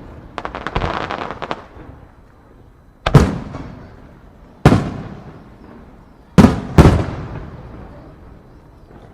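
Aerial fireworks shells bursting: a quick run of crackling pops in the first second or so, then four loud booms, the last two close together, each trailing off in a long rumbling echo.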